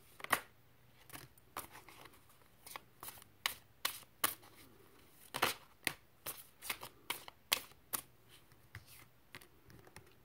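Tarot or oracle cards being shuffled and handled, with an irregular string of crisp card snaps and clicks.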